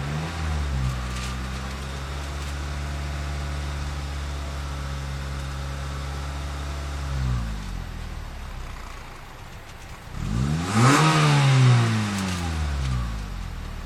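Honda Civic EM2's four-cylinder engine heard through its exhaust with the silencer insert in. It idles steadily and blips briefly about seven seconds in. About ten seconds in it revs sharply, the loudest moment, and then falls back toward idle over the next couple of seconds.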